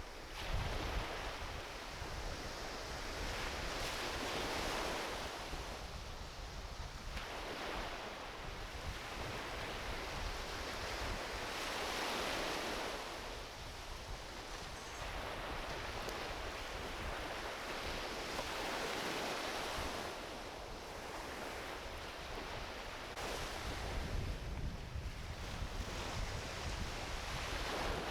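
Small ocean waves washing onto a beach, the surf swelling and fading every several seconds. Wind buffets the microphone in low gusts near the start and again about 24 seconds in.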